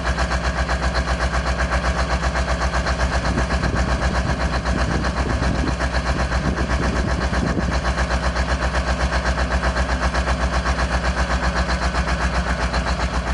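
Diesel engine idling steadily, with an even, rapid pulsing beat from its firing strokes.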